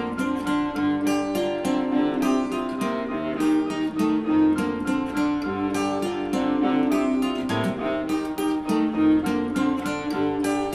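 Live acoustic band music: an acoustic guitar picked in a steady, rhythmic pattern over held, sustained notes.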